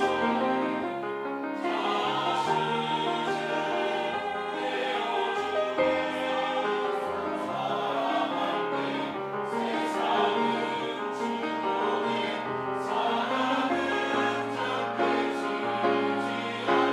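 Church choir singing a sacred anthem in several parts, with sustained chords that move steadily.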